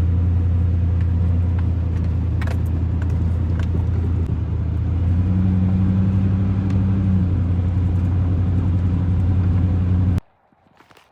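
A motor vehicle's engine running at a steady speed, a low drone with a few light rattles, that stops abruptly near the end.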